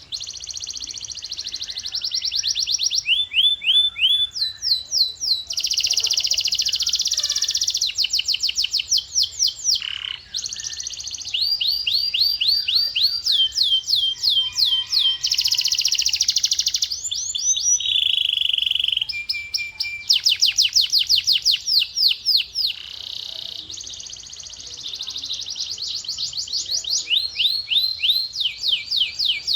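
Male domestic canary singing continuously: long rolls of rapidly repeated notes and fast trills, changing tour every second or two, with sweeping glides between them. This is the kind of song played to young canaries as a training model.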